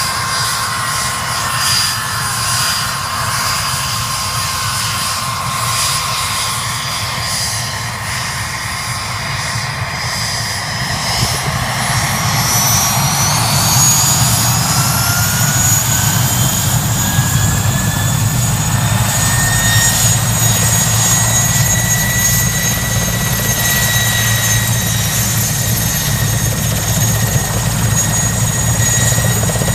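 Helicopter running with steady rotor beat and a high engine whine. From about ten seconds in the whine rises in pitch and the sound grows louder as power comes up for takeoff, then holds steady and loud.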